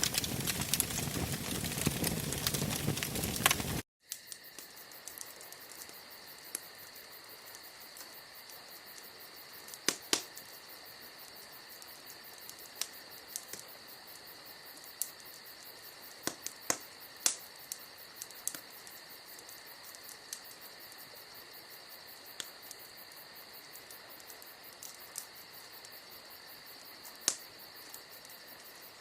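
A bonfire crackles loudly and densely for about four seconds, then the sound cuts abruptly. After the cut, crickets chirp steadily and the fire gives occasional sharp pops.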